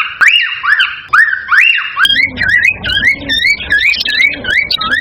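Cockatiel calling in a rapid string of repeated rising whistled notes, about two to three a second. About two seconds in, the recording changes: the notes come a little faster over a low background rumble.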